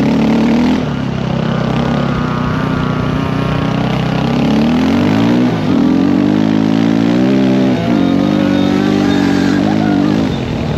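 Dirt bike engine running under way, its pitch climbing after about four seconds, with two brief dips around the middle and near the end.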